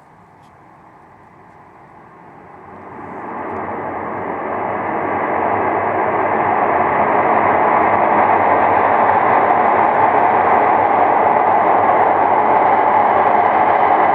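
A loud, steady rushing roar that swells up over about four seconds and then holds. It is one of the cycles of a noise the uploader heard repeat every two minutes for 15–20 seconds, which he guesses is a military aircraft or a jet engine being tested.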